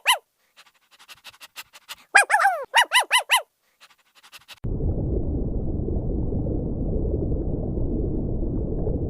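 An animal, likely a bird, giving quick runs of short calls that rise and fall in pitch, followed from about halfway by a steady low rushing noise.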